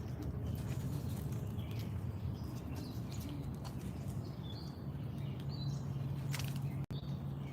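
Small songbirds chirping in short, scattered calls over a steady low hum, with light scattered taps.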